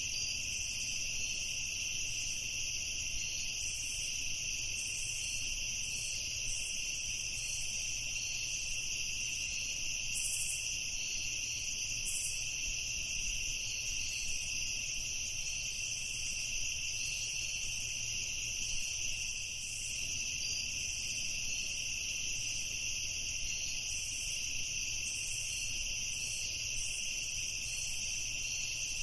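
Night chorus of crickets and other insects: a continuous high-pitched trilling with faster rhythmic chirping layered over it, steady throughout.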